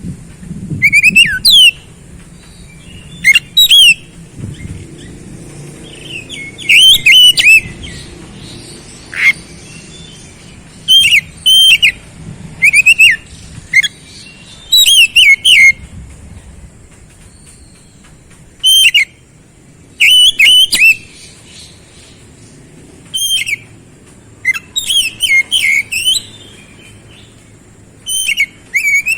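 Oriental magpie-robin (kacer) singing: short bursts of loud whistled notes and swooping glides, with pauses of one to a few seconds between the phrases.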